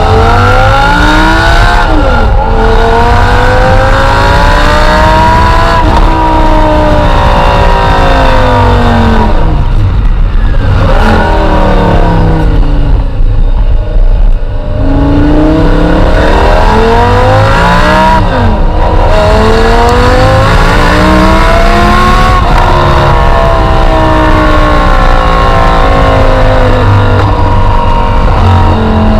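Audi R8 V10 engine through an ABT exhaust, accelerating hard through the gears: the pitch climbs and drops back at each upshift, twice. About ten seconds in it comes off the throttle and winds down, then pulls hard through the gears again with two more upshifts.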